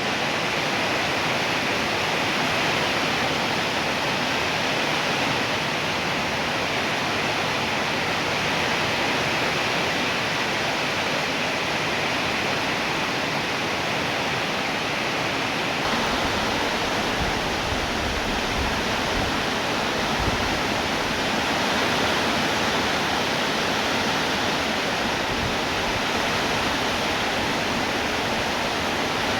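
Heavy rain falling, a dense steady hiss with no let-up.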